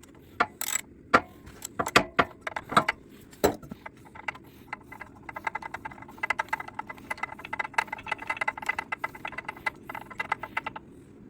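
Ratchet and spark plug socket on an old generator's small engine: a few separate metal clicks and knocks, then rapid ratchet clicking for about six seconds as the spark plug is worked loose and out.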